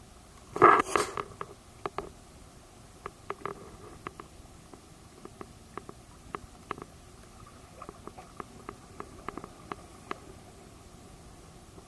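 Underwater sound during a diver's seawall survey: a short loud rush, such as a burst of exhaled regulator bubbles, about a second in, then scattered sharp clicks at irregular intervals over a faint steady background.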